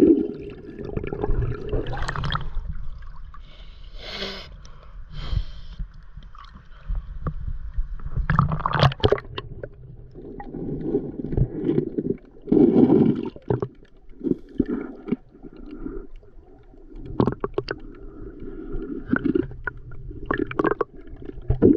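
Stream water sloshing and gurgling close to the microphone, with irregular knocks and splashes throughout.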